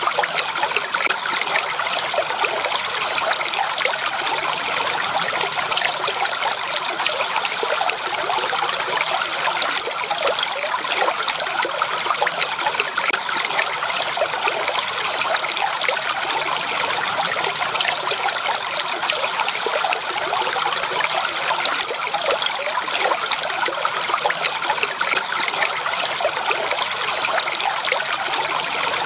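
Water trickling and splashing steadily over stones in a small stream, an even babble with no pauses.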